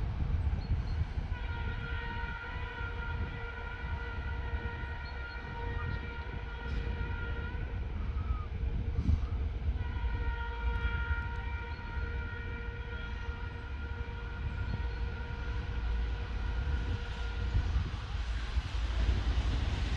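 ChME3 diesel shunting locomotive's typhon air horn sounding two long, steady blasts, each several seconds long with a short gap between them, over a low rumble.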